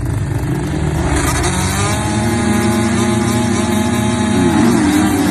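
Dirt bike engine running at high revs, its pitch holding steady for a couple of seconds and then wavering up and down near the end.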